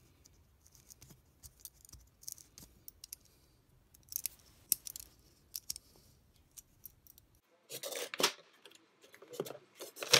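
Light metallic clicks and scrapes from a steel vernier caliper being handled and its sliding jaw worked. Louder bursts of scraping come about three-quarters of the way in, and a sharp click at the end.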